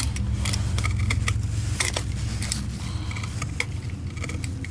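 Irregular clicks and taps of plastic parts being handled on a vacuum power-brush roller with a melted end cap, over a steady low hum.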